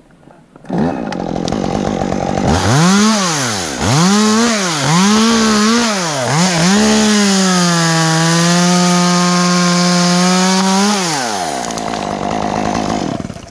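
Stihl two-stroke chainsaw: a low steady tone at first, then it is revved up and down several times, then held at full throttle at a steady, slightly lower pitch for about four seconds. About 11 seconds in the throttle is released, the revs fall away and the sound dies out near the end.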